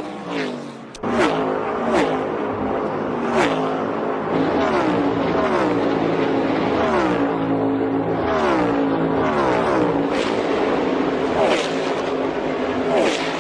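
NASCAR Cup Series stock cars' V8 engines at racing speed, passing one after another: each engine note drops in pitch as a car goes by, with a new pass about every second. The sound gets louder about a second in.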